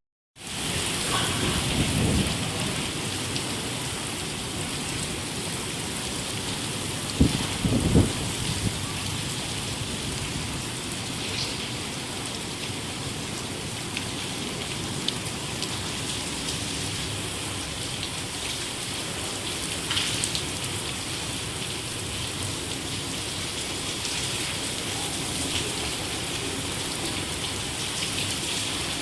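Heavy rain falling steadily, an even hiss of drops hitting the ground. It starts after a brief break, and two sharp knocks come about a second apart, about a quarter of the way in.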